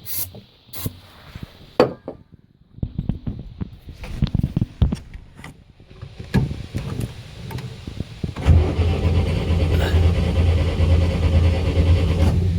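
Atomic 4 four-cylinder gasoline inboard boat engine on a cold start without a choke, primed with starting fluid: a few short hisses and clicks, several seconds of starter cranking, then the engine catches about two-thirds of the way in and runs.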